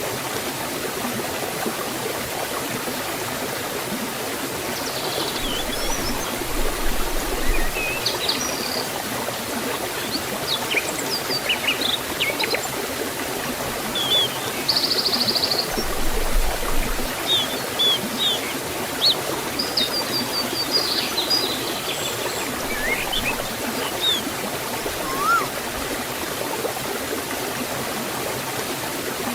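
Steady rush of water flowing over a forest waterfall and stream. Birds chirp and whistle briefly now and then over it, starting about a fifth of the way in and stopping before the end.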